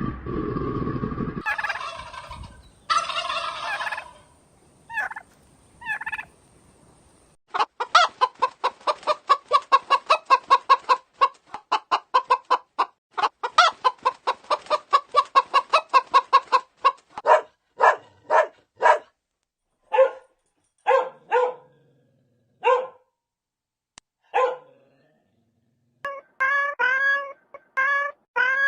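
Domestic fowl calling: a long run of rapid, rattling calls, then separate calls with pauses between them. Near the end a cat starts meowing repeatedly.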